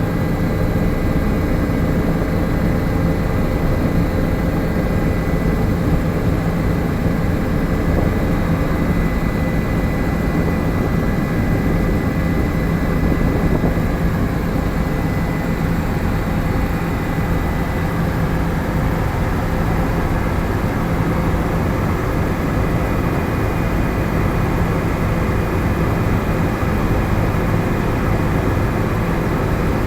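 Helicopter engine and rotor running steadily: a loud, even drone with a constant low hum and a faint high whine.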